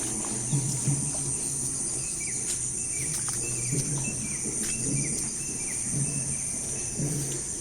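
Crickets and other insects keeping up a steady high-pitched drone, with a string of short falling chirps from a bird in the middle and irregular low pulsing sounds underneath.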